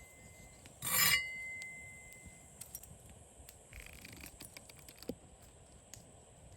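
Metal cookware clinking once about a second in, with a clear ring that dies away over a second or so, followed by light scraping and small scattered clicks.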